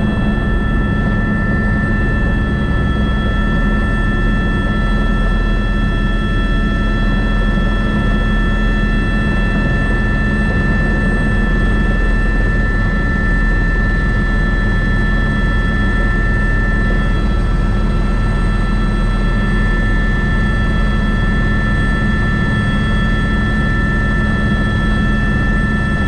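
Airbus AS350 B3 (H125) helicopter's single turboshaft engine and rotor running steadily, a loud drone with a constant high whine of several tones above it.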